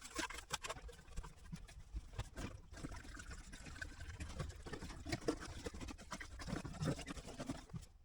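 Diesel poured from a jerry can into a diesel heater's fuel tank, a faint uneven trickle with small knocks of the can.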